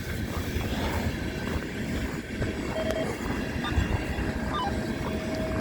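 CN eastbound train rolling past, a steady low rumble of the train going by.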